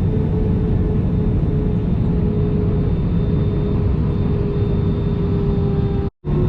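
Steady cabin noise inside an Airbus A320 with its engines running: a constant low rumble with a steady hum-like tone on top. The sound cuts out completely for a moment near the end.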